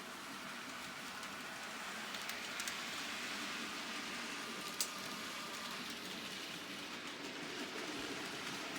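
Model train running on the layout's track: a steady rolling hiss of wheels on rail, with a few sharp clicks, the loudest about five seconds in.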